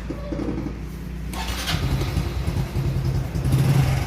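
Honda Wave 110i's fuel-injected single-cylinder engine running, its sound growing louder near the end. The bike bogs and dies when the throttle is twisted, and a clogged fuel injector is the suspected cause.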